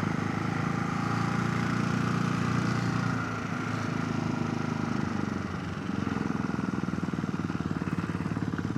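Motorcycle engine running at low speed under the rider's helmet-mounted camera, with wind noise over it. The engine note drops back about three seconds in and picks up again about six seconds in.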